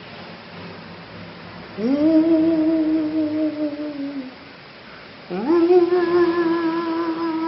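Domestic cat yowling: two long drawn-out calls, each sliding up at the start and then holding, the second one longer with a wavering pitch.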